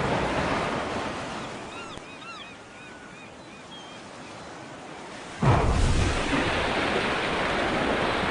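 Ocean surf: the wash of a breaking wave fades to a lull, then another wave breaks suddenly about five seconds in and keeps rushing. A few faint high chirps sound in the lull.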